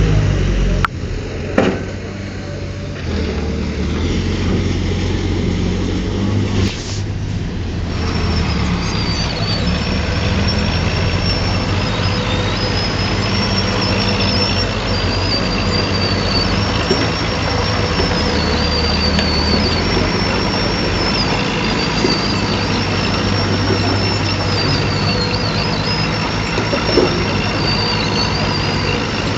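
Heavy diesel engine of an excavator or bulldozer running steadily at work. A couple of sharp knocks come early on, and about eight seconds in a high, wavering whine joins it.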